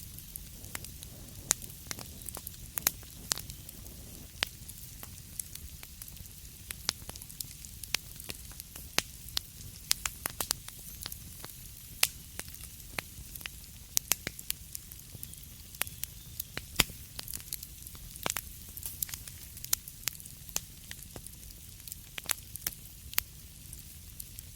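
Wood fire crackling in a fireplace: irregular sharp pops and snaps, a few much louder than the rest, over a steady soft hiss and low rumble of the flames.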